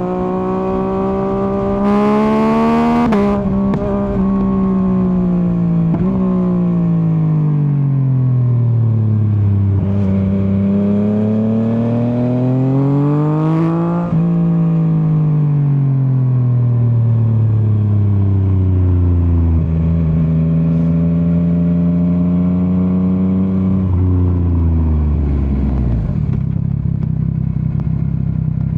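2024 Yamaha MT-09's 890 cc inline-three engine being ridden: it revs up, eases off, pulls up again about ten seconds in, falls away, holds a steady pitch for a few seconds, then drops to a low idle-like note near the end. A few short snaps break in as the revs change.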